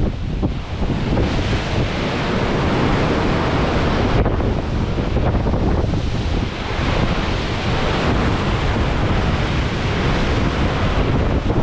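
Storm waves of four to six metres rushing and breaking along a ship's side, with strong wind buffeting the microphone. A loud, continuous rush that swells and eases over a few seconds.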